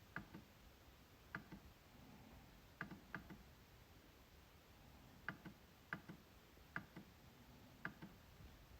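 MacBook trackpad being clicked: about eight sharp clicks at uneven intervals, some coming in quick pairs, each a short double tick.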